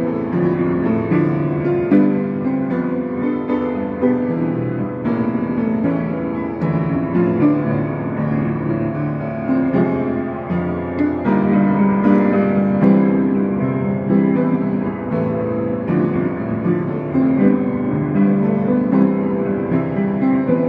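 Solo piano playing a slow pop song arrangement in sustained chords with a melody on top.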